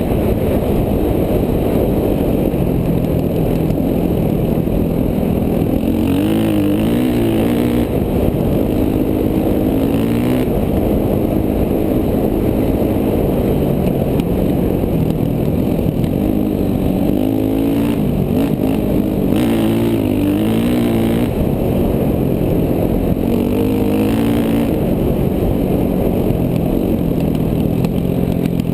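KTM 450 dual-sport motorcycle's single-cylinder four-stroke engine running hard as it is ridden on a dirt trail. The engine note repeatedly rises and falls as the throttle is worked.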